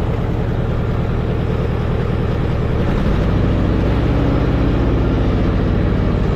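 Allis-Chalmers tractor engine running under load, trying to pull a fence post with a chain. About three seconds in the engine note changes and grows louder as it takes up the strain against a post held fast in very hard, dry ground.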